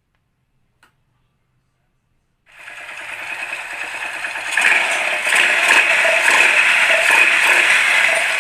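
Silence, then a fast mechanical rattling noise starts about two and a half seconds in and grows louder over the next two seconds before running on steadily.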